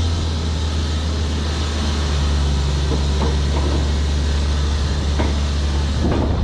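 A crane's engine running with a steady low drone while the crane slews, with wind noise over it.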